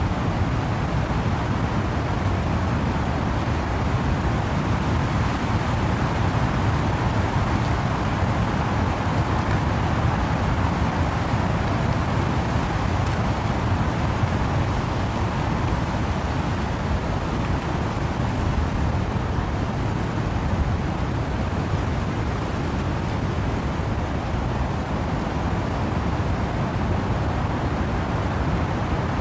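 Steady wind-driven rain in trees: an even, unbroken rushing noise, heaviest in a low rumble, with no single drops, gusts or other events standing out.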